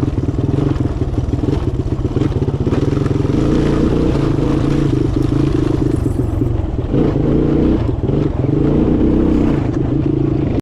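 Small motor vehicle engine running steadily and loud, its note shifting about seven seconds in.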